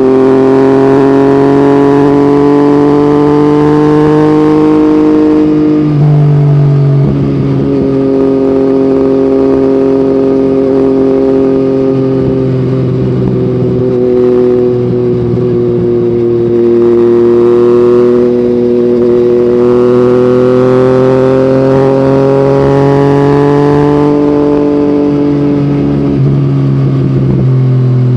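Yamaha MT-09's three-cylinder CP3 engine running through an Akrapovic exhaust while riding, its note rising and falling slowly with the throttle. The pitch drops briefly about six seconds in and again near the end.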